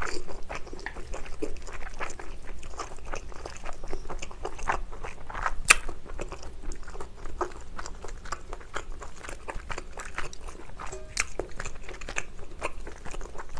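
Close-miked person chewing mouthfuls of chewy spicy cold noodles: steady wet chewing and crunching, with many small clicks and one sharper click about six seconds in.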